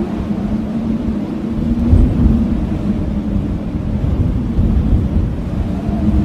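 Blizzard wind howling in low wavering tones over a deep rumble of gusts, with a stronger gust surging about two seconds in.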